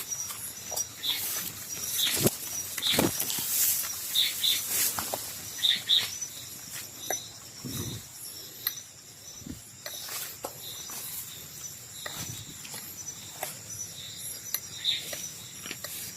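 Irregular crackling and rustling, like movement through leaf litter and undergrowth, over a faint steady high-pitched chirring of night insects.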